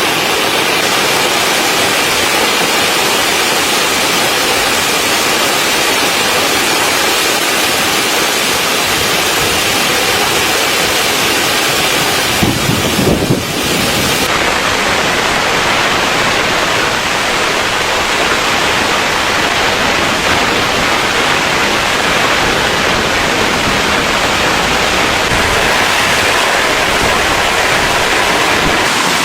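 Steady rain falling on a tent, heard from inside as an even, loud hiss. There is a brief low rumble about halfway through, after which the highest part of the hiss drops away.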